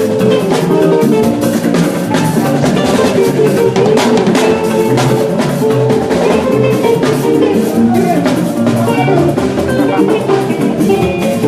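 Live church band music: a drum kit keeps a busy beat with rimshots under sustained pitched instrument notes.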